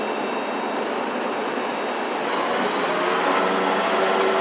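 Steady vehicle noise, with an engine hum that grows about two and a half seconds in.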